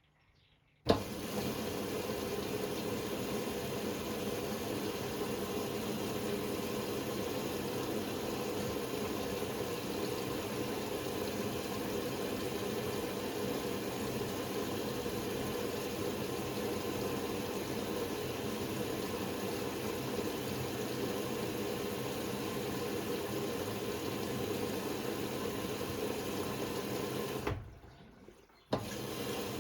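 Water running in a Hoover Sportswear 1300 (AI130) washing machine: it starts abruptly with a click about a second in, runs as a steady rush, dies away near the end and starts again.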